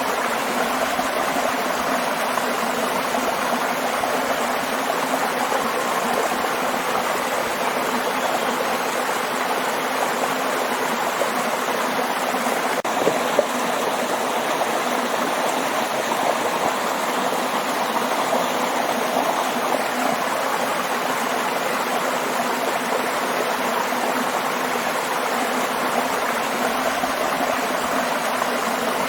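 Waterfall rushing steadily, an even wash of falling and splashing water without a break.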